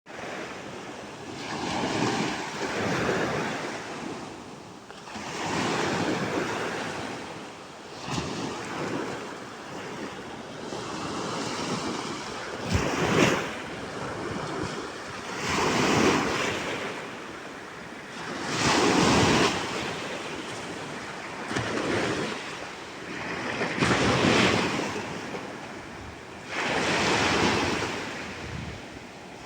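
Sea surf splashing on the shore, the wash of each wave swelling and fading every few seconds, with one sharper splash about thirteen seconds in.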